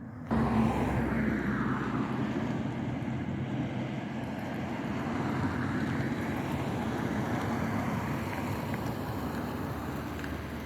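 Engine noise of a passing vehicle that starts abruptly, then holds steady and fades slowly as its pitch falls a little.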